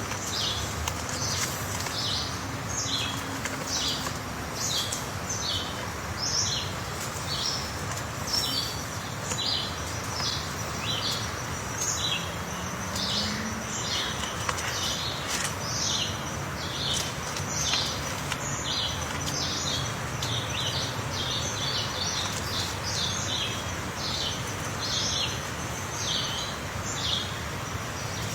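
Small birds chirping: short, high chirps two or three a second, overlapping as from several birds, over a steady hiss.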